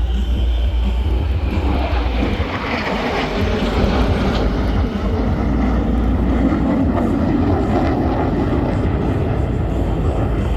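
Jet noise from Black Eagles KAI T-50B trainers, single-engine turbofan jets, flying past: a loud, continuous rushing sound that swells through the middle and holds steady.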